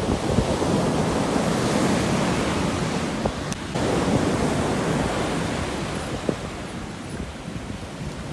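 Sea waves surging and washing on the shore, a steady rush that swells early and eases off toward the end.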